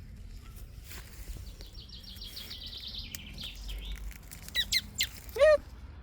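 Wild songbirds calling: a fast trill of high repeated notes about two seconds in, then a few sharp chirps and one loud call near the end.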